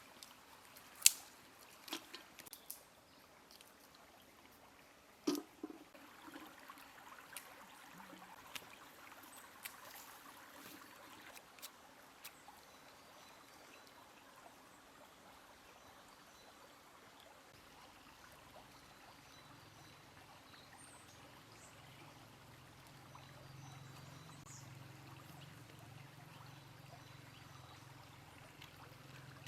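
Faint trickling water, with several sharp knocks and clicks in the first few seconds and a low hum setting in about two-thirds of the way through.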